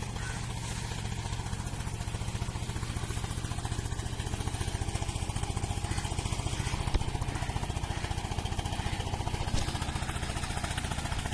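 Diesel engine of a motor trawler boat running steadily, a rapid, even chugging.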